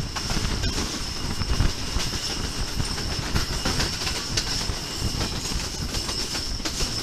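Pakistan Railways Subak Raftar rail car running at speed, heard from its open window: a steady rumble of wheels on the track with quick irregular clicks over the rail joints and a thin, steady high whine.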